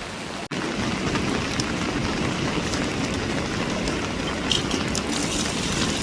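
Rain falling steadily, a continuous hiss, with a momentary break about half a second in.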